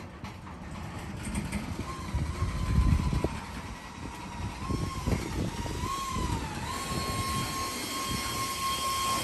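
Freight train passing: a low rumble of wheels on rail with irregular knocks, and a high whine that wavers in pitch and then holds steady from about seven seconds in.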